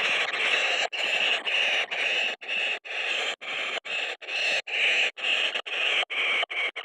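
Kingfisher nestlings begging for food: a continuous string of rasping calls, about two to three a second.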